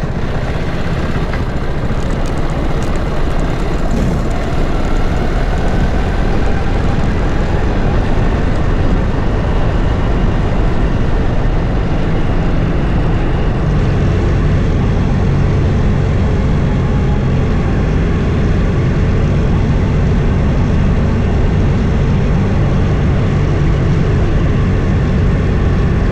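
Vehicle engine running steadily while travelling along a road, with a constant rush of road noise; the low engine hum becomes stronger and steadier about halfway through.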